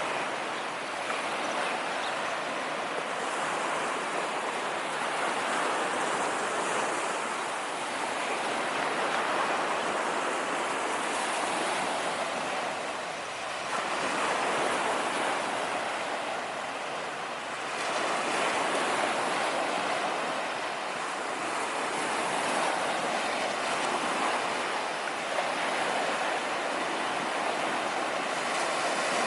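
Sea waves washing onto a beach: a continuous rush of surf that swells and eases every few seconds, with a couple of brief lulls between waves.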